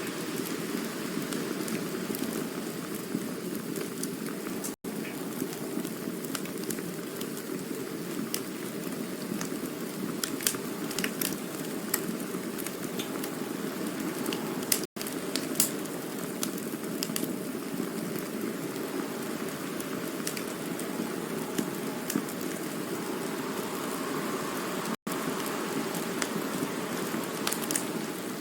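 Campfire burning: a steady low rush of flames with scattered sharp crackles and pops from the burning wood. The sound cuts out for an instant three times, about ten seconds apart.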